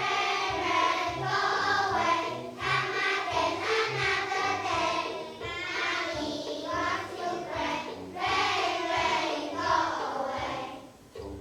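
A class of young children singing together in unison over a backing track with a bass line; the singing stops shortly before the end, leaving the accompaniment.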